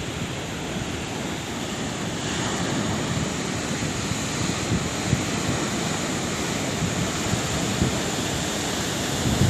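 Sea waves washing on the shore: steady surf with a low rumble, swelling a little about two seconds in.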